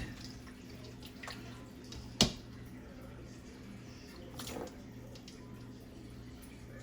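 Quiet kitchen handling: one sharp knock, like a utensil or dish set down on a counter, about two seconds in, and a fainter clatter a couple of seconds later, over a steady low hum.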